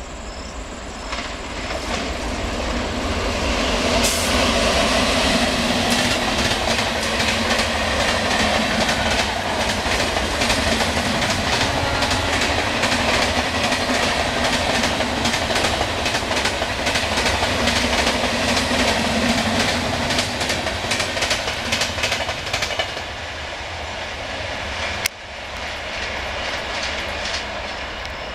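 WAP7-hauled passenger express train passing at full speed. The rail noise builds over the first few seconds into a steady rush of wheels with rapid clickety-clack over the rail joints, then eases after about 22 seconds as the last coach goes by. There is a single sharp click about 25 seconds in.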